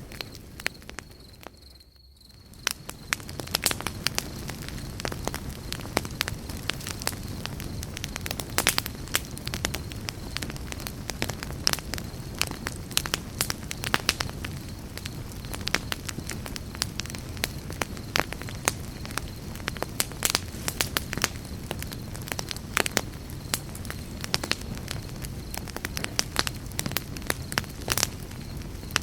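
Campfire crackling, with sharp irregular snaps and pops over a steady low rumble of burning wood. The sound dips briefly about two seconds in, then comes back.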